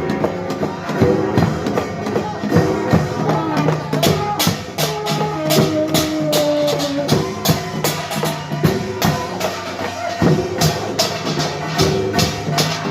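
Korean pungmul percussion ensemble of gongs and drums playing without a break, with rapid metallic strikes over the drums.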